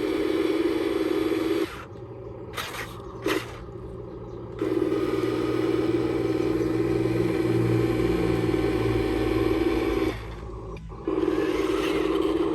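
Electric motors of an RC construction model whirring in three runs, stopping and starting between them, with two short knocks in the first pause.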